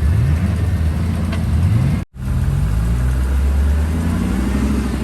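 Rock-crawler truck's engine running and revving up twice under load as it strains to climb a boulder it is stuck on. The sound drops out for an instant about two seconds in.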